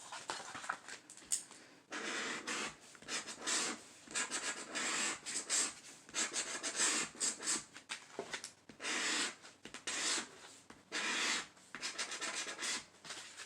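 Scratch-off lottery ticket being scratched: repeated short rasping strokes across the ticket's coating, coming in quick runs from about two seconds in.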